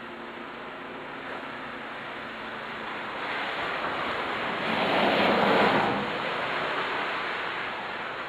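A vehicle passing along the street: a rush of tyre and road noise that swells from about three seconds in, peaks a little past halfway and then fades.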